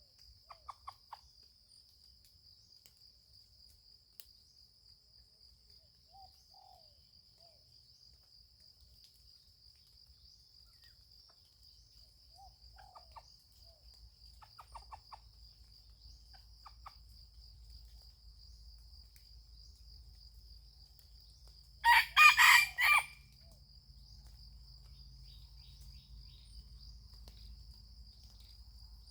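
A rooster crows once, a single call of about a second, about two-thirds of the way in. A steady high insect trill runs underneath, with a few faint short chirps earlier on.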